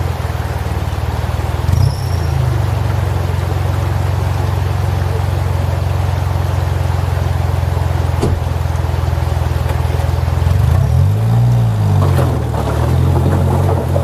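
Vehicle engine running with a steady low hum; about eleven seconds in its pitch briefly rises and falls.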